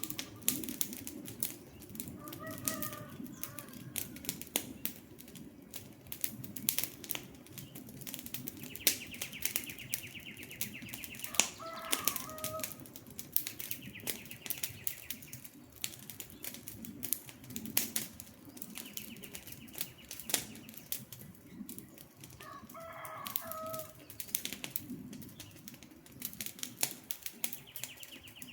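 Wood campfire crackling and popping continuously over the low steady sound of the flames. Birds call three times, and a high rapid trill comes and goes every few seconds in the background.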